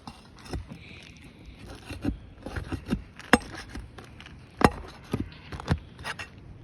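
Scraping and sharp clicks of a tool prying old, stuck roofing nails out from under asphalt shingles, with two louder knocks near the middle.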